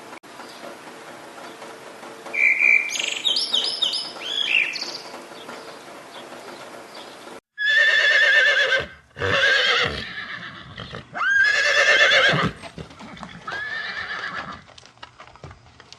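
A faint steady background with a short high trill, then, after an abrupt cut about seven seconds in, four loud animal calls with a wavering, quavering pitch, each about a second long.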